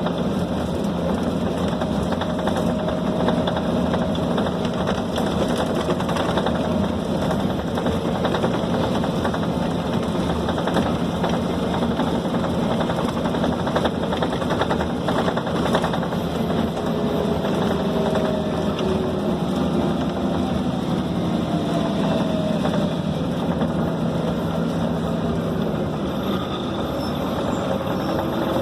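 Scania K270 city bus heard from inside the passenger cabin while under way: a steady diesel engine drone with rattling road noise, and faint whines that glide in pitch. The engine note drops near the end.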